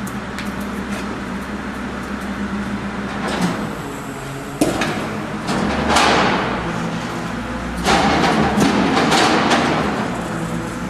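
A tow truck's engine running steadily during a strap pull, with sudden loud stretches of clanking and rushing noise about halfway through and again near the end.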